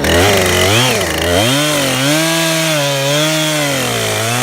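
Two-stroke chainsaw revved up and down a few times, then held at high revs with a slight waver as it cuts into a maple trunk being felled, dropping back near the end.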